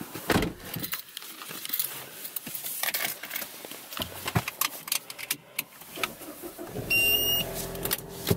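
Keys rattling and clicks of handling in a Ford Mustang's cabin. About seven seconds in, a short electronic chime sounds and the engine starts, settling into a low steady idle.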